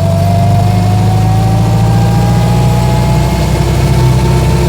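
1924 Austin Seven's small four-cylinder engine and drivetrain running under way in gear, heard from inside the car, with a thin whine that rises slowly in pitch as the car gathers speed.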